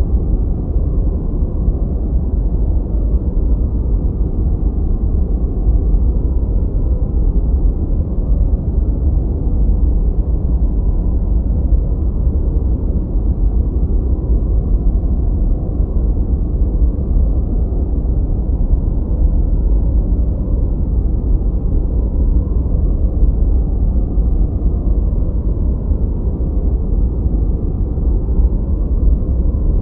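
Continuous synthetic noise for focus, billed as white noise but deep and muffled: a steady rushing rumble with no bright hiss on top, unchanging throughout.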